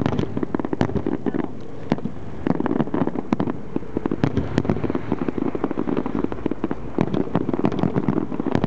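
Aerial fireworks show going off: a dense, irregular rattle of sharp bangs and crackles, thickening in clusters, over a low rumble.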